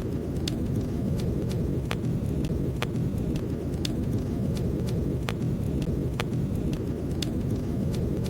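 Wood fire crackling in a fireplace: sharp pops and snaps about once or twice a second over a steady low rumble of the flames.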